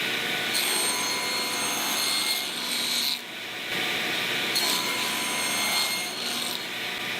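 An electric power tool runs against wood, a steady rasping noise with a high motor whine. It eases off briefly about three seconds in and again near the end.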